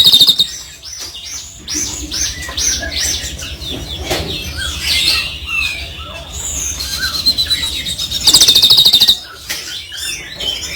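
Caged songbirds singing a varied run of whistles and chirps, with a loud, rapid, buzzing trill at the very start and another about eight seconds in.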